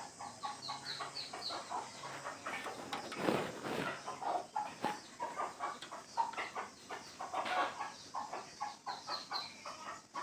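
Chickens clucking, with runs of short high chirps near the start and again near the end. A brief rushing noise about three seconds in is the loudest sound.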